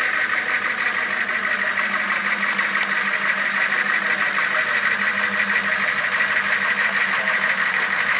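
Monster truck's engine running steadily.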